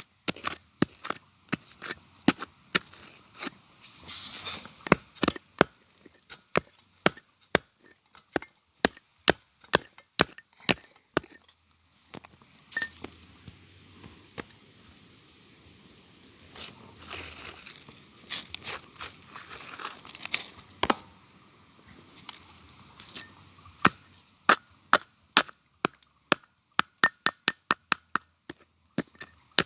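A metal digging tool striking rock and gravel over and over: sharp clinking blows, two or three a second, thinning out around the middle where there is a stretch of scraping among the stones.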